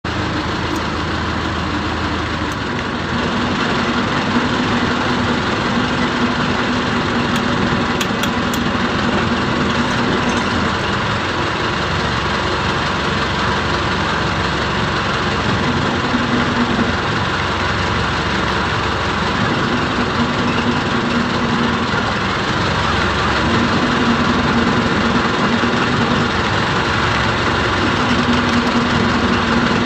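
A boat's engine running steadily, with a low hum that comes and goes every few seconds.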